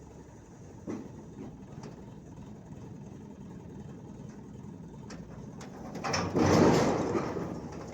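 Low engine rumble from road traffic, with a vehicle passing close about six seconds in, rising loud then fading away.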